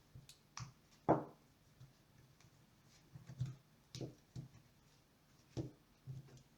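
Scattered light clicks and taps of small hard objects being handled, with one louder knock about a second in that rings briefly.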